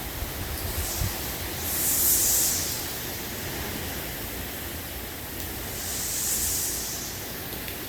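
Hurricane wind and rain: a steady rushing hiss that swells into two louder gusts, about two seconds in and again near six and a half seconds, with a few low thumps of wind buffeting the microphone in the first second.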